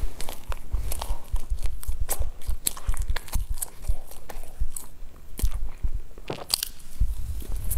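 A person chewing cream-filled sponge cake close to a clip-on microphone: mouth sounds with many irregular sharp clicks.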